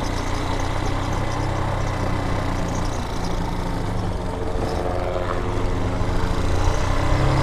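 Vitacci Raven 250 dirt bike's air-cooled 250 cc engine running while riding, its note rising slightly in the second half.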